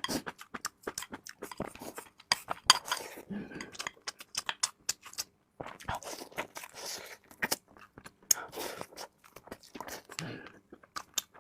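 Close-up chewing of free-range chicken: a dense run of small wet mouth clicks and smacks, with a few longer, noisier stretches of chewing in between.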